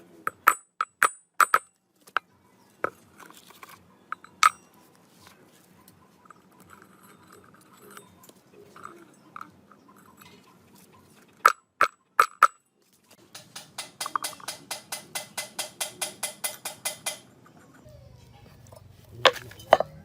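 Metal tools and parts clinking and knocking in sharp single strikes, then a run of even metallic clicks about four a second for a few seconds, and two more clinks near the end.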